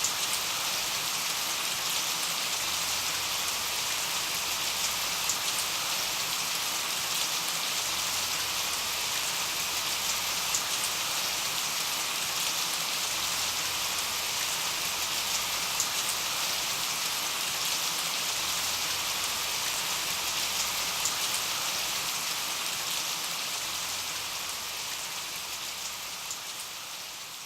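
Steady rain hiss with scattered sharp drop ticks, fading out near the end.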